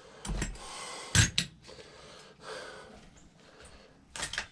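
A few sharp clicks and knocks of small parts and hand tools being handled while a motorcycle's carburetor parts are taken off, with faint hiss between them; the loudest knock comes about a second in.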